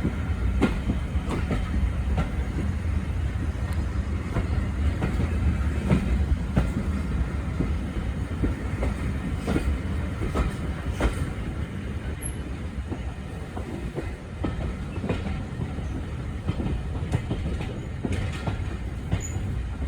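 Railway carriage running along the line: a steady low rumble with irregular clicks and knocks from the wheels over the rail joints.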